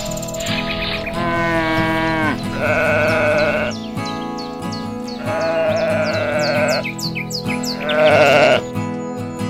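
Animal bleating, about four long wavering calls, over steady background music.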